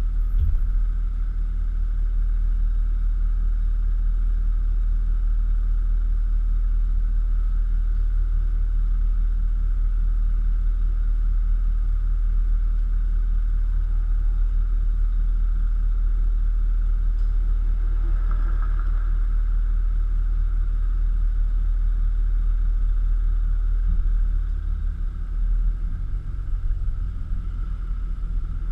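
Infiniti FX50S's V8 engine through an ARK custom exhaust, a steady low rumble as the car runs along at an even pace. It grows a little quieter and less even near the end.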